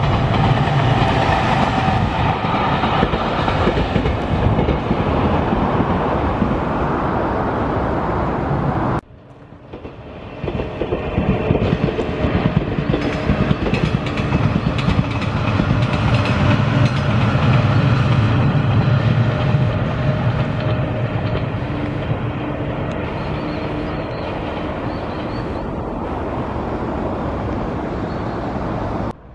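Electric trains running past on the JR Nippo Main Line: a steady rumble of wheels on rail with a clickety-clack. The sound cuts off abruptly about nine seconds in, then a second train builds up and runs by.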